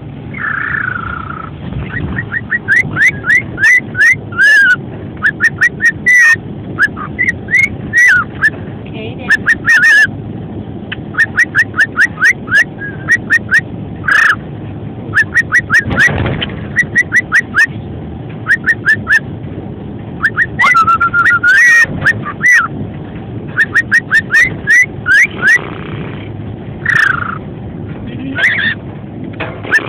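Cockatiel whistling its song: runs of quick, short rising chirp-whistles, several a second, broken now and then by a longer held whistle. A steady low background hum lies underneath.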